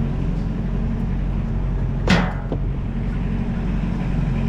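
An engine running steadily, with a short sharp noise about two seconds in.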